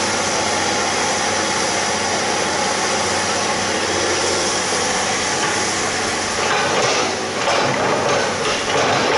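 Excavator engine running steadily, with irregular mechanical knocks and scraping from about two-thirds of the way in.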